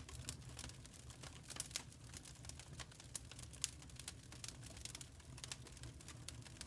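Burning charcoal crackling, with frequent irregular small pops and snaps over a low steady hum.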